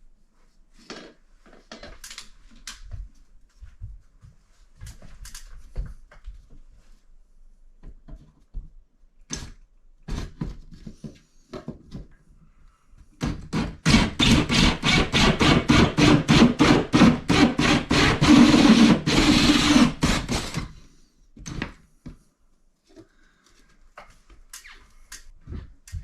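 Scattered knocks and clicks of handling, then a saw cutting in quick, even strokes for about seven seconds, the loudest sound, before more knocks.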